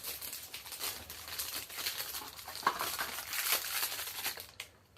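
Crinkling, rustling handling noise with many small irregular clicks as parts are handled and fitted, dying away near the end.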